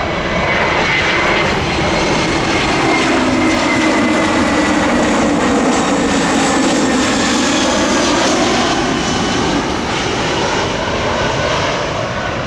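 Jet airliner passing low overhead, a loud engine rush and whine whose pitch slowly glides as it goes by, with wind buffeting the microphone.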